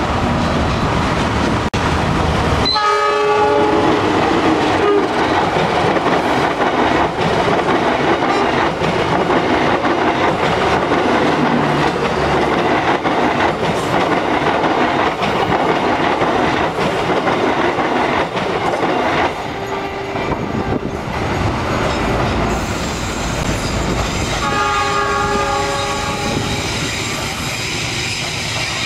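A CC 201 diesel-electric locomotive gives a short horn blast as it comes close, then its passenger carriages run past with a rhythmic clickety-clack over the rail joints. A second passing train sounds its horn for about two seconds near the end.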